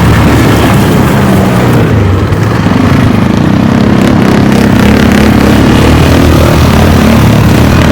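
ATV engine running loudly and steadily, its pitch shifting a little about two to three seconds in.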